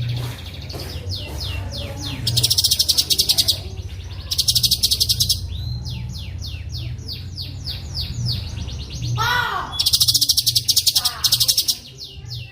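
Songbird song played as masteran for training white-rumped shamas. Fast rolling trills come in three loud, dense bursts about one to two seconds long, with runs of quick descending whistled notes between them, over a steady low hum.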